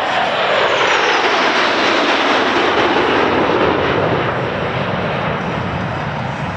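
USAF Thunderbirds F-16 fighter jet flying past low, a loud jet roar whose pitch falls as it passes, then easing a little.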